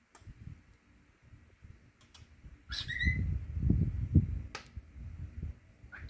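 Cockatiel giving one short whistled chirp about three seconds in, among a few sharp clicks and a stretch of low thumping and rumbling.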